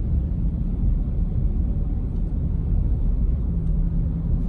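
Car driving on a road: a steady low rumble of engine and tyre noise, with a faint hum joining about three and a half seconds in.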